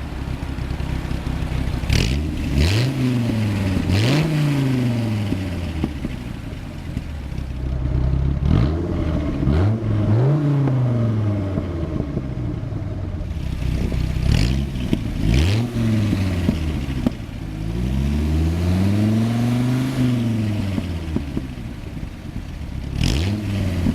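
Dodge Viper SRT-10's 8.3-litre V10 idling and being revved again and again with quick throttle blips, the pitch jumping up and falling back each time, with one longer, slower rev about eighteen seconds in.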